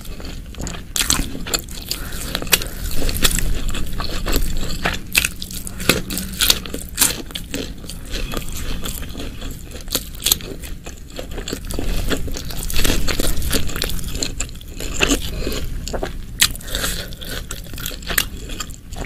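Close-miked eating sounds: chewing and biting food, with many short, sharp mouth clicks scattered throughout.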